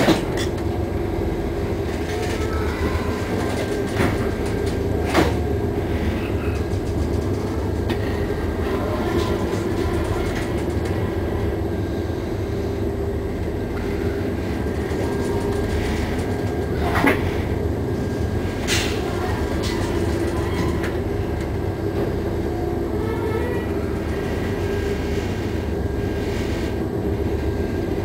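Steady low rumble and hum of a ship's engines and hull working through heavy seas, with a few sharp knocks and rattles scattered through it.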